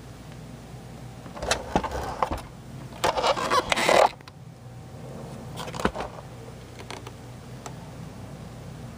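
A cloth rubbing and scrubbing over a sewing machine's plastic casing in two spells of wiping, the second louder, followed by a single knock a little later.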